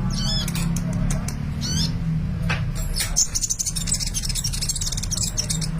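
Sunbird (kolibri) singing: a few quick curling high chirps in the first two seconds, then a fast, high, rapid trill from a little past the middle to the end, over a steady low hum.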